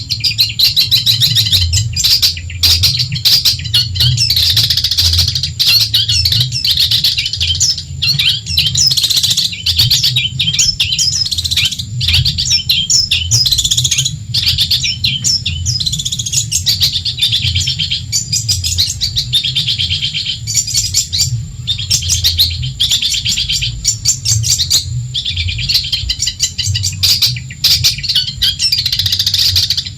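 Long-tailed shrike (cendet) singing a continuous, rapid, high-pitched chattering song with only brief breaks, over a low steady hum.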